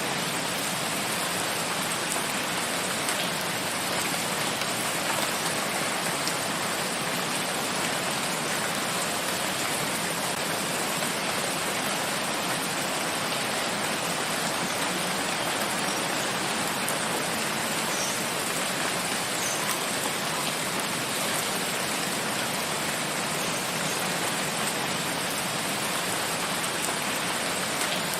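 Steady rain falling in a forest, a dense even hiss of drops with a few faint individual drips.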